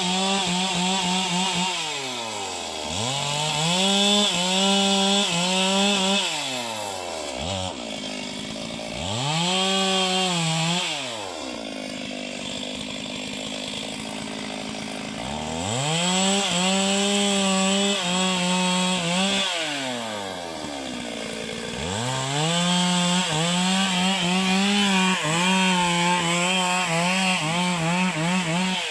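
Two-stroke chainsaw cutting a tree, run up to full throttle and held for a few seconds at a time, then let fall back toward idle between cuts. It does this about five times, with the longest drop to idle near the middle.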